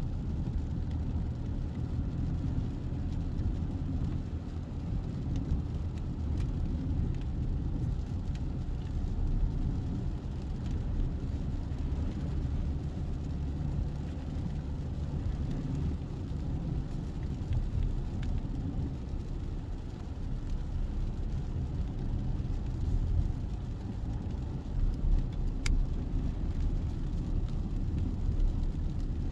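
Mazda CX-60's 3.3-litre inline-six diesel engine running steadily, with a continuous low rumble.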